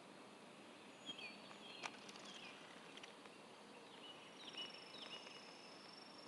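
Near silence outdoors, with faint short bird-like chirps here and there and a thin, steady high-pitched insect-like tone starting about four seconds in. A single faint click comes about two seconds in.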